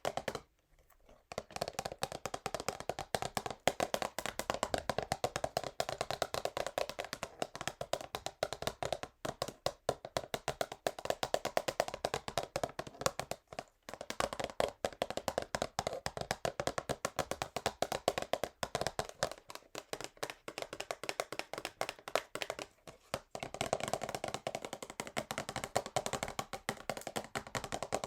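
Fast, continuous fingernail tapping on a cardboard perfume box, a rapid stream of small clicks with a few brief pauses.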